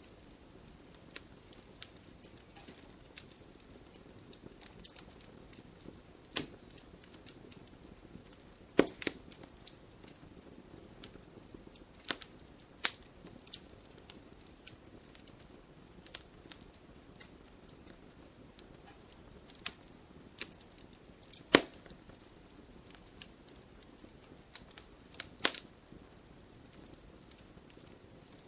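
Wood campfire crackling, with scattered sharp pops and snaps, a few of them much louder, over a low steady hiss.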